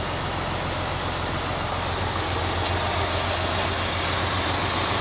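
Semi-truck diesel engine idling steadily while it warms up on a cold morning, heard inside the cab as an even low hum with a steady hiss.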